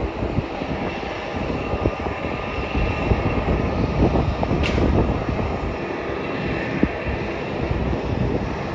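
Jet aircraft engines running, with a faint steady whine over a broad rush, and wind buffeting the microphone in gusts. A short sharp sound comes about four and a half seconds in.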